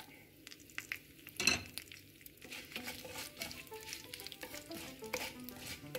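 Dried red chillies and urad dal frying quietly in hot coconut oil in a nonstick pan, with a light sizzle and a wooden spatula stirring and scraping through them. One sharp knock comes about a second and a half in.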